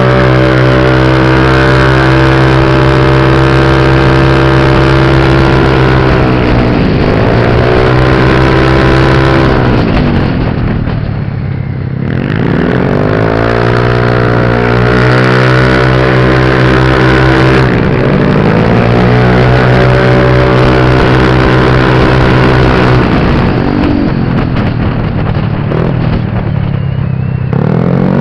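Motorbike engine running hard at a steady pitch. It eases off and picks back up about four times.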